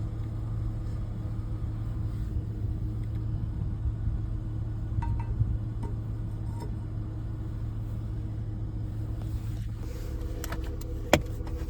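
Dodge Charger's engine idling steadily while it charges a semi truck's dead batteries through jumper cables. A few sharp clicks come near the end.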